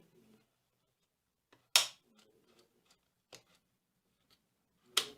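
Two sharp clicks about three seconds apart, the first near two seconds in, with a fainter click between them.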